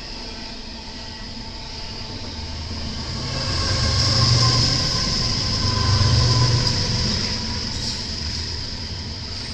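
BNSF intermodal freight train rolling past, its steel wheels rumbling on the rails with a steady high squeal over the top. The rumble swells twice as cars go by.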